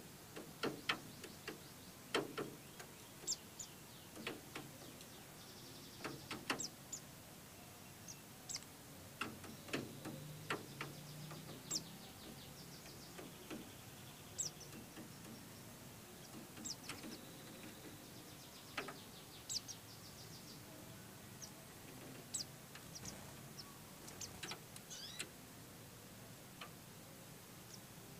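Pleci (white-eye birds) giving short, scattered chirps and chip calls, with sharp little clicks in between, at a low level.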